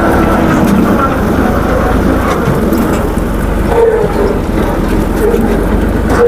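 Tractor diesel engine running steadily at a loud level.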